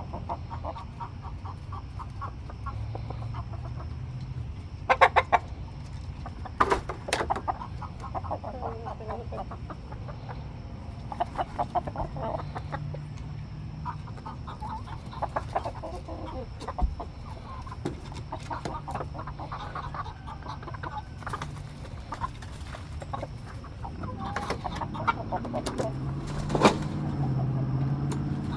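Domestic chickens clucking on and off, with a few sharp loud knocks about five and seven seconds in and again near the end, over a low hum.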